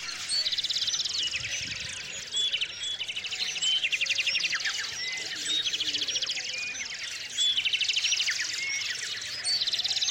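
Small songbirds singing: a fast trill of rapidly repeated notes comes about every two seconds, with scattered short high chirps between.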